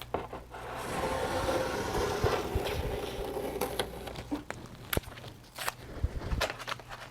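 Masking tape being peeled off paper: a dry tearing hiss lasting a few seconds, then scattered small clicks and taps.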